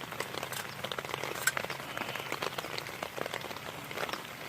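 Steady rain falling, with many separate drops striking close by as irregular ticks.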